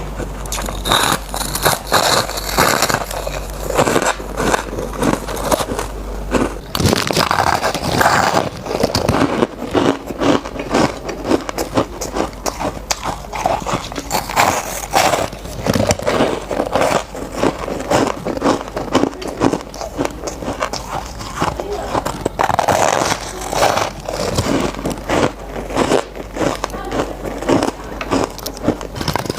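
Close-up sounds of a person biting and chewing squeaky shaved ice: repeated crunches and crackles, with squeaking as the packed ice is compressed between the teeth.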